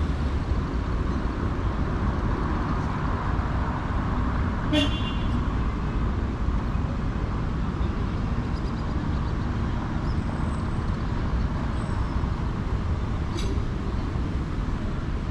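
Steady city street traffic, a continuous low rumble of passing vehicles, with one short pitched sound about five seconds in and a brief click a little before the end.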